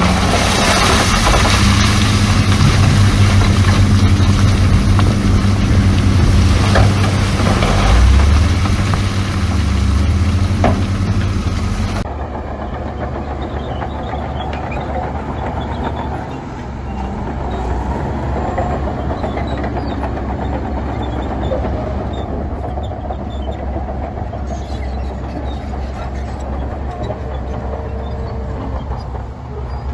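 Heavy diesel engines of earthmoving machinery running steadily. The sound is loud and full for the first twelve seconds, then changes abruptly to a quieter, thinner engine rumble.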